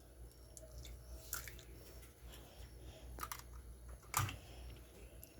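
Eggs being cracked and emptied: a few faint clicks and shell crunches, with one sharper tap of shell on a rim about four seconds in.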